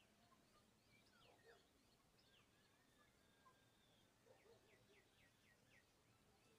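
Faint birdsong: scattered short chirps and whistles, with a quick run of about five falling notes in the second half.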